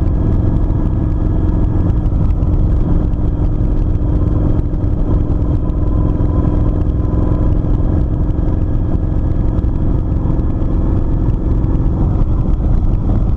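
Kawasaki Vulcan 900's V-twin engine running at a steady cruising speed on the move, its pitch holding even, under a heavy low rumble of wind on the microphone.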